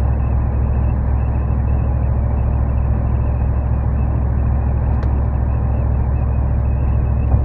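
Low, steady exhaust drone of a 2014 Ram 1500's 5.7L HEMI V8 at highway cruise, heard inside the cab, from a tubular muffler with the resonator deleted. Steady road and wind noise run underneath it.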